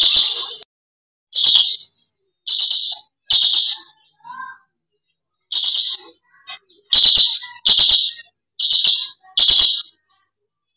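Lories calling in harsh, high-pitched screeches, about ten short bursts with brief gaps between them, falling silent about a second before the end.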